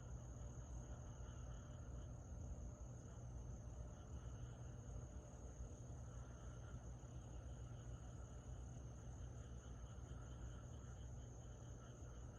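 Summer-night insects singing in a steady, unbroken high-pitched chorus, over a faint low rumble.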